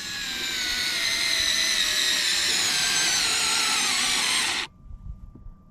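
Electric screwdriver with a 7 mm socket driving a door-panel bolt: a steady motor whine for about four and a half seconds, dropping slightly in pitch near the end, then cutting off suddenly.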